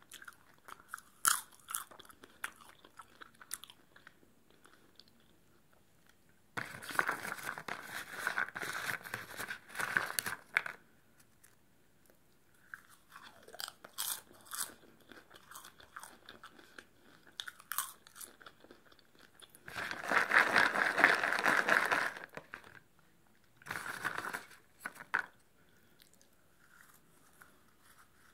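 Close-up chewing of crunchy popcorn: bouts of crisp crunching with quiet pauses between. The longest and loudest bout comes about two-thirds of the way in.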